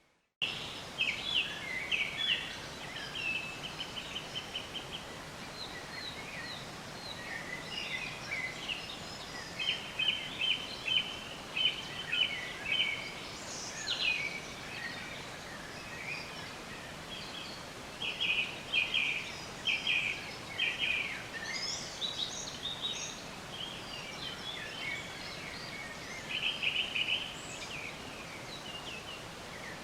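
Songbirds chirping and trilling in quick repeated phrases over a steady background hiss, starting abruptly about half a second in.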